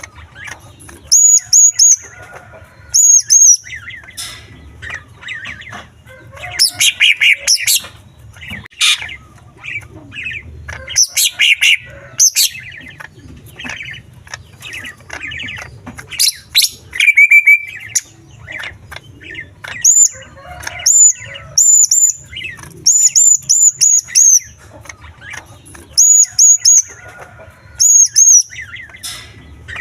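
Male green leafbird (cucak ijo) singing a loud, varied song packed with imitated calls of small birds: groups of short high whistled notes alternating with bursts of fast chattering trills.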